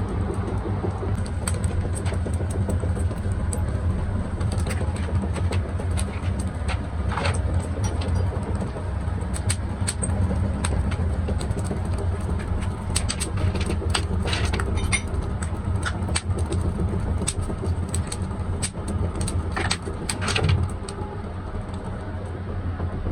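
Workshop machinery running with a steady low hum, with many scattered clicks and knocks and a faint high whine.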